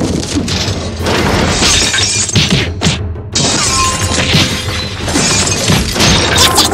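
Background music with a run of crashing, shattering sound effects.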